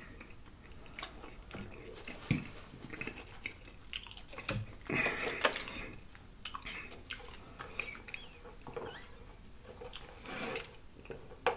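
Close-miked chewing and lip-smacking of a mouthful of food: scattered soft wet mouth clicks with a few longer, louder smacking passages about five seconds in and again near the end.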